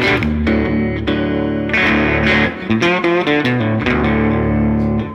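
Slide guitar playing a short phrase. Several upward rakes of the thumb across the strings sound as quick rolled strums, and the slide glides between notes in the second half.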